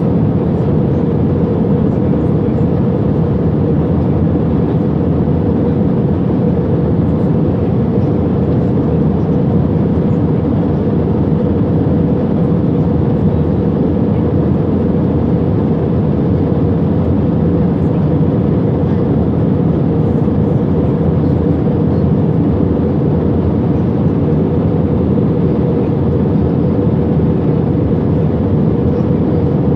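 Steady drone of an airliner's engines and airflow heard inside the passenger cabin, even and unchanging throughout.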